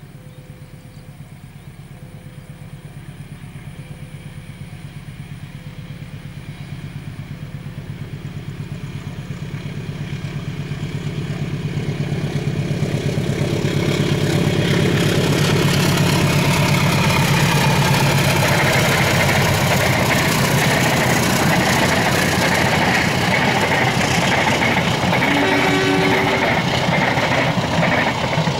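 Diesel-electric locomotive hauling a passenger train: its engine grows steadily louder as it approaches and passes about halfway through. The coaches' wheels then roll loudly over the rails for the rest of the time.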